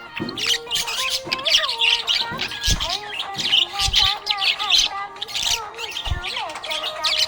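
Budgerigars chirping and squawking in a dense, continuous stream of short high chirps.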